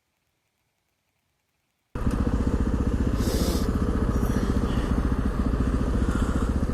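Honda XR650R's single-cylinder four-stroke engine running steadily. It cuts in abruptly about two seconds in, after silence.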